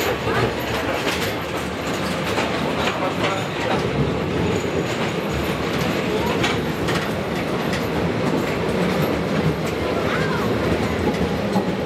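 Postojna Cave's open-carriage electric tourist train running through the cave tunnel: a steady rumble with the clickety-clack of wheels over the rail joints.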